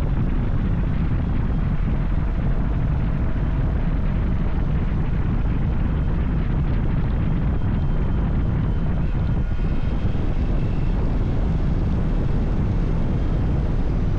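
Motorcycle at road speed: a steady engine drone under heavy wind rush on the microphone.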